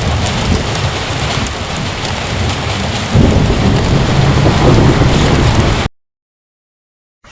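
Heavy rain pouring down, with a deep thunder rumble that swells in about three seconds in. The sound then cuts off suddenly into complete silence shortly before the end.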